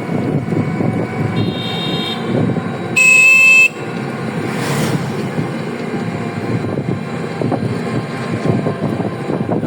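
Vehicle horns sound twice over a steady rumble of road traffic: a short, fainter honk about a second and a half in, then a louder honk lasting under a second at about three seconds.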